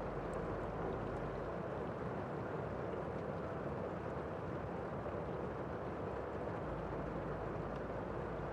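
Steady rain falling, an even wash of noise with a few faint drip ticks, muffled as if heard from inside a room.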